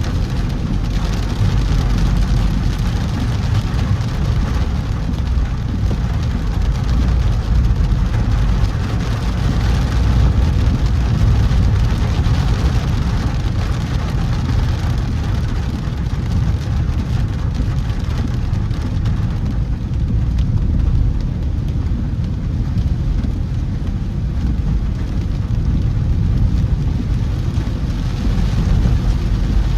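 A car driving through heavy rain: a steady low road-and-engine rumble under an even hiss of rain.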